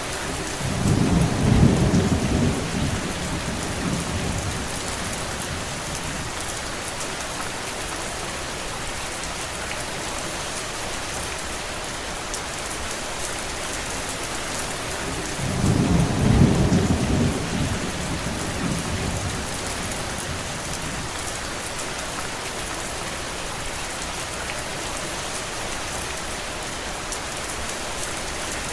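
Steady rain, an even hiss throughout, with two low rumbles of thunder lasting a few seconds each: one about a second in and one about halfway through.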